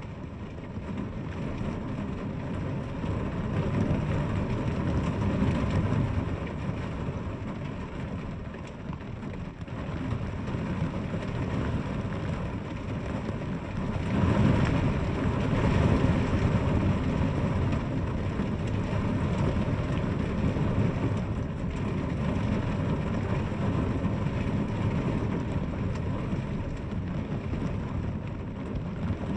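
Steady rain falling, with a low rumble that swells and fades, loudest about halfway through.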